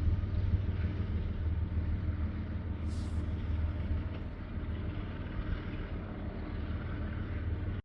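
Steady low vehicle rumble, with a brief hiss about three seconds in.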